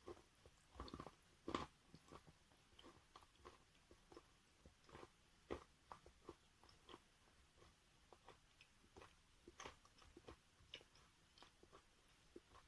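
Wet natural chalk being bitten and chewed: quiet, irregular crunches and clicks, the loudest about a second and a second and a half in.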